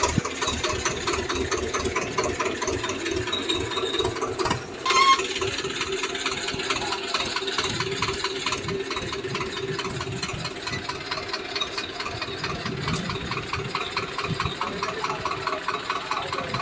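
Swaraj 724 XM tractor's diesel engine running steadily, with a rapid, even firing beat. About five seconds in, the engine briefly drops away, then a short, sharp loud burst follows.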